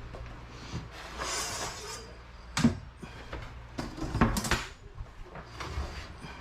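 Clatter and sharp knocks of hard objects being handled and set down, the loudest about two and a half seconds in and again about four seconds in, with a short hissing rustle near the start.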